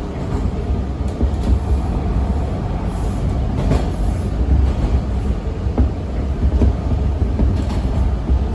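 Inside a Bombardier T1 subway car running along the line: a steady low rumble of the wheels and running gear, with a few faint clicks from the track.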